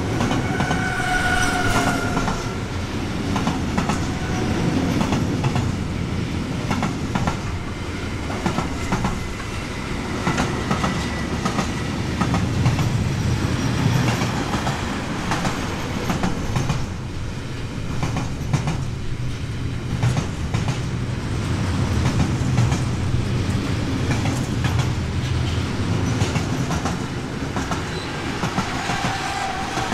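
A train running past at close range: a steady rumble with irregular wheel clacks over rail joints and points. A brief high-pitched tone, such as a wheel squeal, comes near the start and again near the end.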